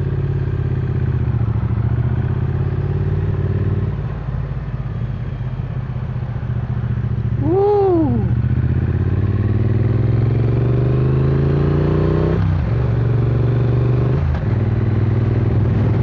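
Triumph Speed Twin 900's parallel-twin engine pulling under way. Its note climbs steadily and drops sharply at a gear change about twelve seconds in, with other dips where the throttle is rolled off. About eight seconds in, the rider gives a single shout of "Woo!".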